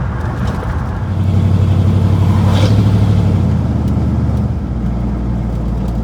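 Pickup truck engine running under way, heard from inside the cab; the engine note rises about a second in and eases back around three and a half seconds.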